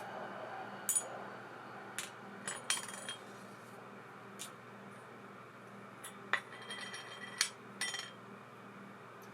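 Small metal parts and tools clinking and tapping at irregular intervals during work on a baitcasting reel. Some of the clinks ring briefly, and there is a cluster of them a little past the middle.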